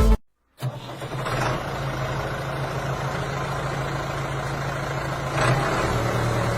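A motor running steadily, with a constant low hum and a noisy whirr above it. It starts about half a second in and grows a little louder around five and a half seconds in.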